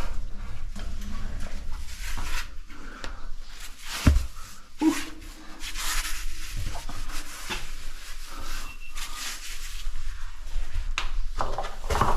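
Cavers moving over rock: scuffing and rubbing of clothing, boots and gear against stone, with one sharp knock about four seconds in.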